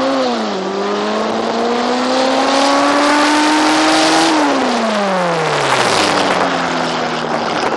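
Drag-race car's engine at full throttle: its pitch drops at a gear change, climbs steadily for about four seconds, then falls away as the throttle comes off.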